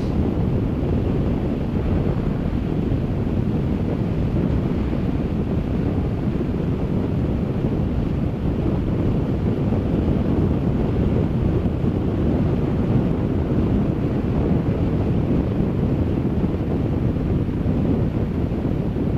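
Steady wind rush over the microphone with motorcycle and road noise underneath, from riding along at speed.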